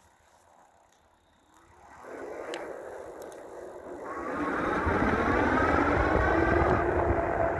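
Electric bike's 5000-watt motor whining as the bike speeds up, its pitch climbing steadily, over wind and road rumble. The first two seconds are nearly quiet; the sound builds from about two seconds in and is loudest from about four seconds on.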